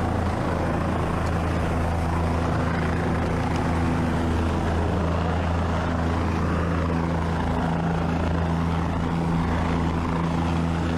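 Sheriff's helicopter running steadily through a long-line rescue, a constant low drone of rotor and engine with a steady hum that holds its pitch.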